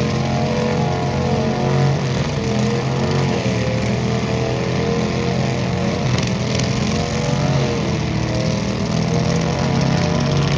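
A tractor engine running hard and steady, its pitch sagging briefly a couple of times.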